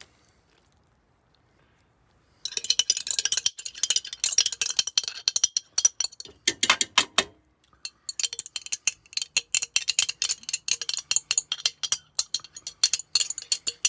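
A utensil clinking and scraping rapidly against a cooking pot as tortellini and chicken in sauce are stirred. It starts about two seconds in and pauses briefly in the middle.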